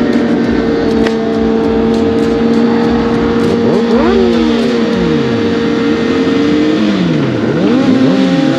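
Vehicle engines running steadily, then from about four seconds in revved again and again, the pitch climbing and dropping in repeated sweeps.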